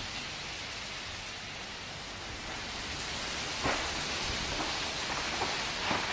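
Heavy storm rain and wind as a steady rushing noise, with two short sharp knocks in the second half.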